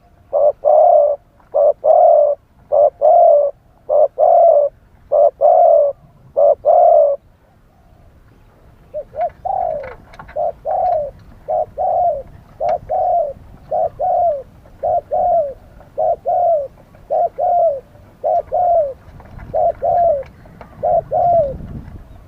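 Spotted doves cooing: a loud run of short repeated coos for about seven seconds, a short pause, then a quieter run of falling coos that stops near the end.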